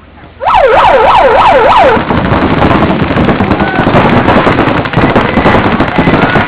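Electronic start horn warbling for about a second and a half, sweeping up and down about four times, signalling the start of the point. Then many paintball markers fire in rapid, dense popping.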